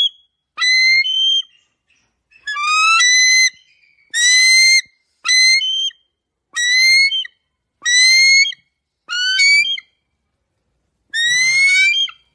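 An animal giving a series of about eight loud whistled calls, each under a second long and rising slightly in pitch, with short pauses between them.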